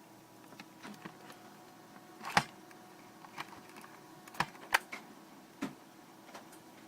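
Irregular light clicks and taps of small plastic parts being handled as a tiny LED on fine wire is slotted through a hole in an instrument-panel plate, with sharper clicks a little past two seconds and around four and a half seconds in.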